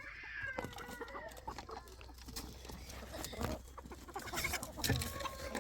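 Chickens clucking in a string of short calls, the first one drawn out and falling in pitch.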